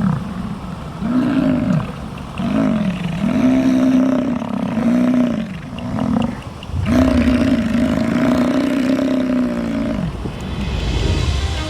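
Bull bison bellowing: a run of short, deep calls, then one long call of about three seconds.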